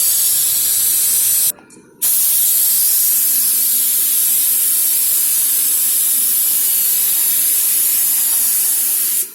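Spray gun spraying a coating onto a car bumper: a steady hiss in two passes, a short one of about a second and a half, then after a brief pause a long one of about seven seconds.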